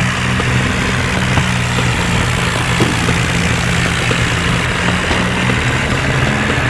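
John Deere tractor's diesel engine running at a steady speed, an even low hum that neither rises nor falls.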